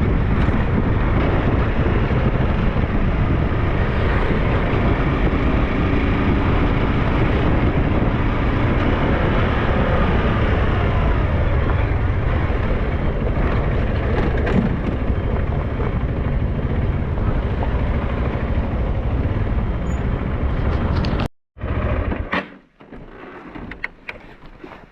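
Riding noise from a SYM NHT 200 motorcycle under way: steady wind rushing over the microphone mixed with the engine. It cuts off abruptly about 21 seconds in, followed by a few quieter knocks and rustles.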